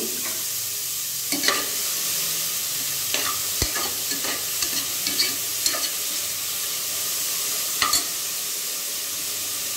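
Diced carrots sizzling as they fry in an open aluminium pressure cooker, with a steady hiss, while a metal ladle stirs them and scrapes and clinks against the pot about seven times.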